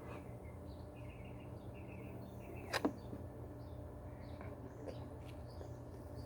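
Birds chirping with short repeated calls over a low steady background hum, with two sharp clicks close together a little under three seconds in.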